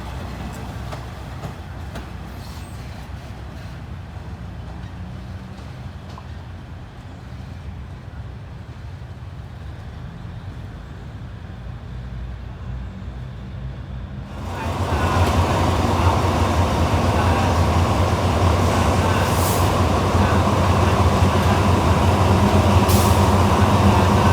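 Diesel train's engine running with a low rumble, turning suddenly much louder about fifteen seconds in with a strong low hum and a steady higher drone.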